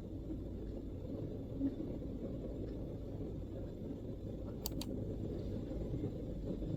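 Steady low background rumble, with two quick MacBook keyboard clicks close together about two-thirds of the way through.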